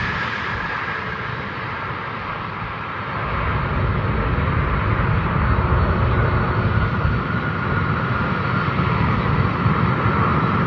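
Boeing 777's jet engines after landing: a steady rumble with a thin high whine, growing louder about three seconds in and then holding.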